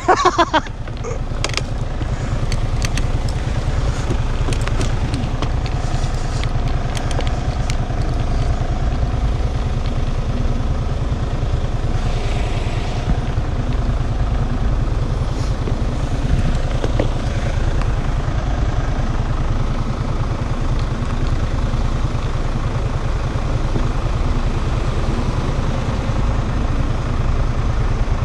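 Steady wind rush and rumble on the microphone while riding at speed, with a vehicle's running sound faintly underneath.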